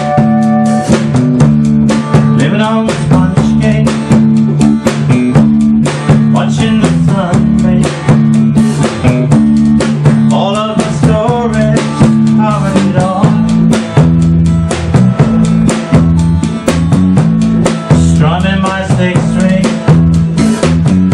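A band playing an up-tempo number: a steady drum-kit beat with rimshots and bass drum under bass and guitar, a melody line weaving in and out over it.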